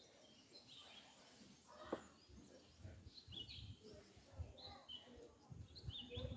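Faint outdoor ambience with small birds chirping now and then in short high calls. There is a single sharp click about two seconds in and some soft low thuds later on.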